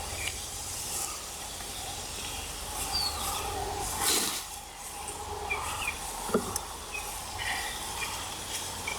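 Paper and kindling just lit in a brazier, catching with a steady hiss, a louder rush of flame about four seconds in and a single sharp crackle a couple of seconds later. Birds chirp briefly.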